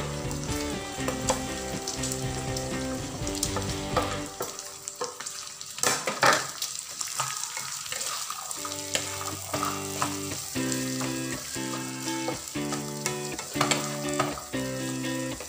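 Corn kernels and pork sizzling in a hot frying pan while a plastic spatula stirs and scrapes them around, with the loudest scrape about six seconds in. Background music plays most of the time, dropping out for a few seconds in the middle.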